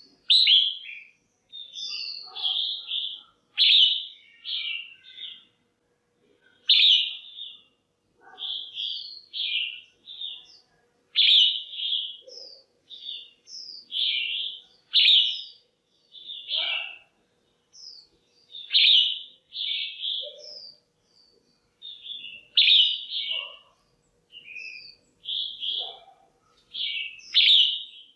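Female red-whiskered bulbul calling: short, bright chirping phrases repeated every second or two, with brief pauses between them. These are the female calls used to stir up a male or to pair birds.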